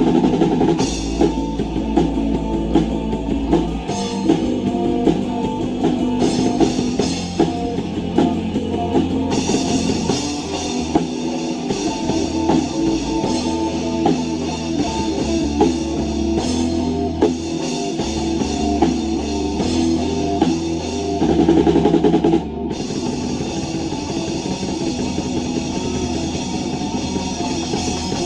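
Rock band playing live: drum kit and guitar over a bass line, with a short break about three quarters of the way through.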